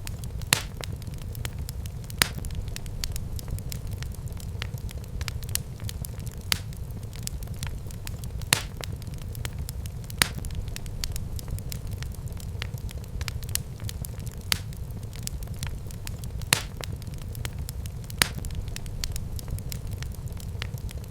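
Wood fire burning in a fireplace, with a steady low rumble of the flames and sharp pops and crackles every second or two.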